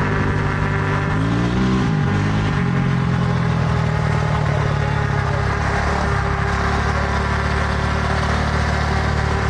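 A motor running steadily while the bike is ridden, with wind rushing over it. Its pitch rises briefly about a second and a half in, then settles into a steady drone.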